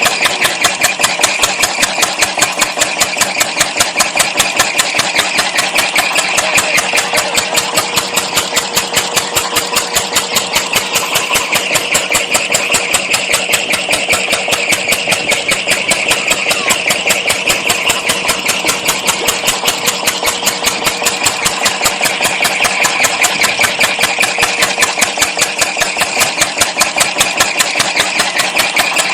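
Small homemade gas-bottle engine running steadily, knocking out a rapid, even beat of sharp strokes over a steady hum.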